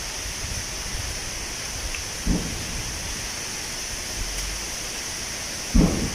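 Wind blowing through tree leaves: a steady rushing hiss over a low rumble, with two brief low buffets about two seconds in and near the end.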